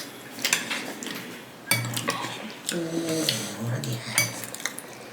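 Cutlery and dishes clinking in scattered sharp clicks while people eat, with some quiet speech in the middle.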